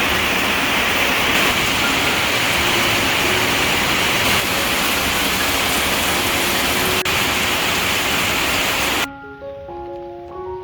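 Heavy rain falling, a steady loud hiss that cuts off abruptly about nine seconds in, leaving soft background music with sustained notes.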